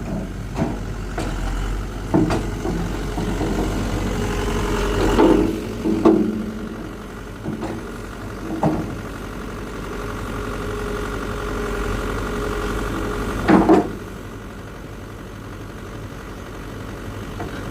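Heavy diesel engine of a Hitachi excavator running steadily at idle, broken by several short sharp knocks and clanks; the loudest come as a pair about thirteen seconds in.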